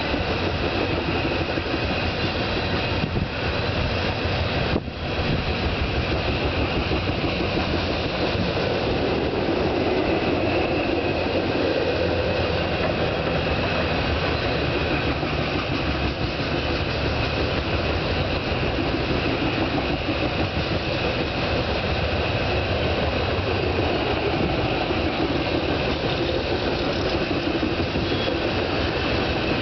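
Union Pacific coal train's hopper cars rolling steadily across a railroad bridge: the continuous rumble and clatter of steel wheels on the rails.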